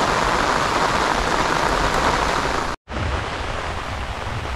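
Steady rain falling on a river and the bank's vegetation, an even hiss. About three seconds in it drops out for a moment at a cut and comes back a little quieter.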